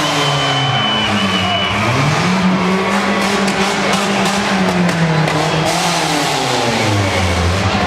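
Off-road competition truck's engine revving hard, its pitch rising and falling again and again as the throttle is worked, with a rapid run of clattering knocks midway through.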